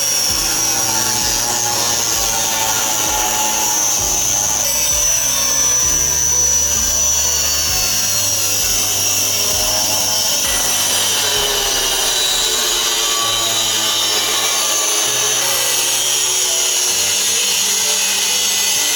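A handheld power tool working steadily against metal, with background music underneath.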